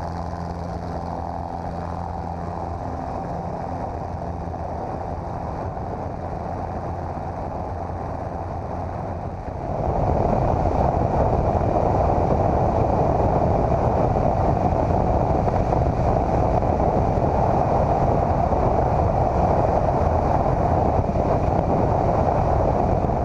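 Cessna 150's Continental O-200 four-cylinder engine and propeller running steadily in flight with wind noise; the sound jumps louder about ten seconds in and stays steady after.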